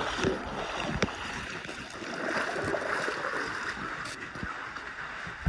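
Water splashing and sloshing as a person moves through a pool after jumping in, with a couple of light knocks.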